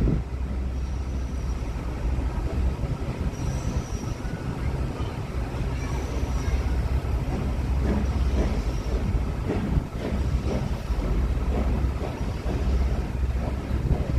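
Heritage railway train running on the track, a steady low rumble.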